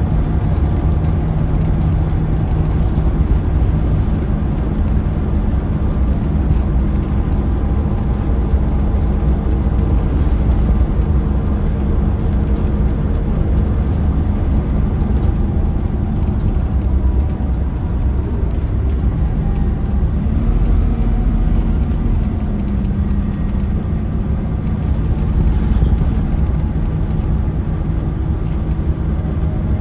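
Scania L94UB bus's Scania DC9 diesel engine running while the bus drives, heard from inside the cabin as a steady drone over road noise. The engine note shifts slightly about two-thirds of the way through.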